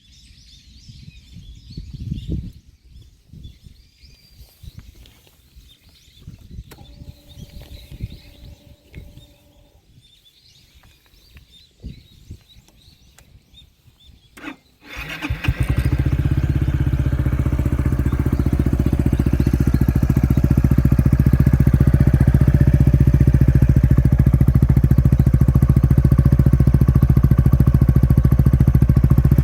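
Yamaha Majesty S XC155 scooter's single-cylinder engine through a BEAMS CORSA-EVO titanium aftermarket exhaust. After some faint clicks and a steady tone lasting a few seconds, the engine is started about halfway through and then idles steadily.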